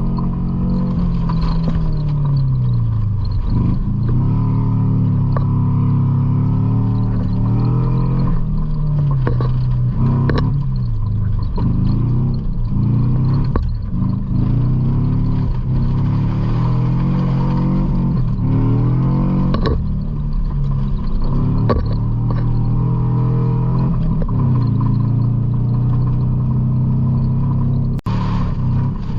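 A 1976 GM pickup's engine revving hard and falling off again and again under throttle. Scattered knocks and rattles from the truck come through as well.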